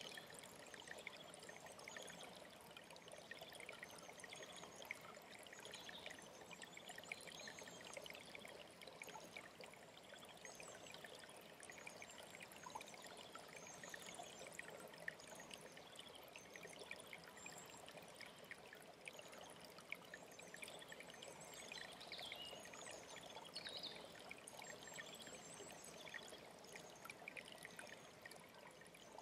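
Mountain stream running steadily, with small birds chirping and trilling faintly over the water throughout.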